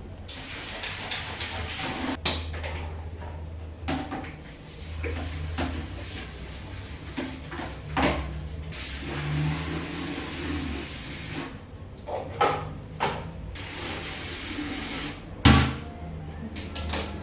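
Household handling sounds: a series of knocks and clatters, with a few bursts of hiss lasting a second or two and one louder knock near the end.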